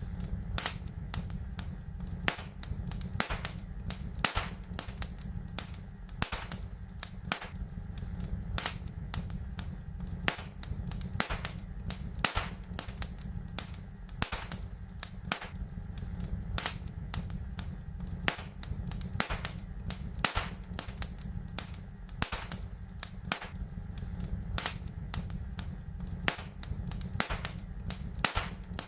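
Wood fire crackling, with irregular sharp pops several times a second over a steady low rumble.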